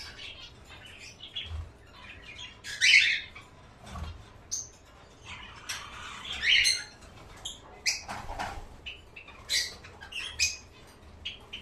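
Small caged birds chirping and squawking in short, irregular calls, with a few louder calls about three, six and a half and nine and a half seconds in.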